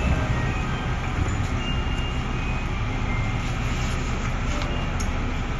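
JR Central 311 series electric train running: a steady low rumble with no distinct events.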